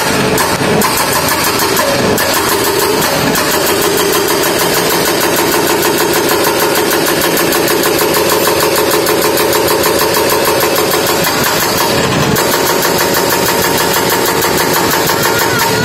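Diesel engine of heavy road-works equipment running steadily under load, with a fast, even pulsing, and a change in its note about twelve seconds in.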